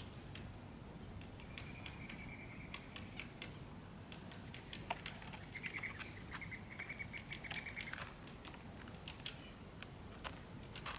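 Small songbirds calling at a backyard seed feeder: two drawn-out trilled calls, the second starting a little before halfway and lasting about two seconds, with many sharp little clicks and taps scattered throughout.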